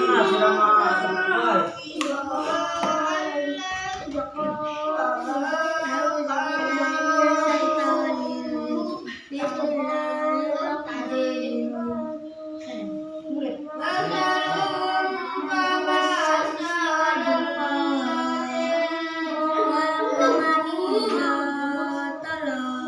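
Children's voices chanting Quranic recitation in a sing-song melody, with long held, wavering notes.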